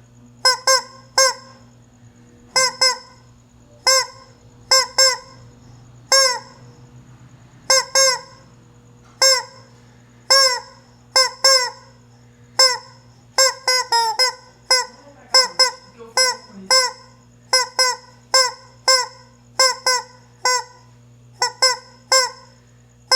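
A chicken calling loudly over and over: short calls in twos and threes, each dropping in pitch, repeating about every second. A steady low hum runs underneath.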